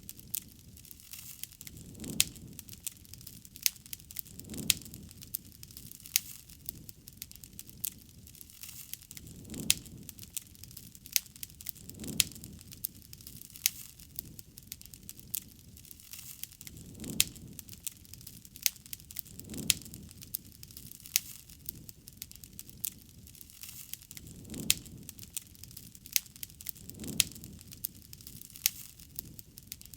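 Campfire crackling, with many sharp pops and snaps and a soft low whoosh every two to three seconds.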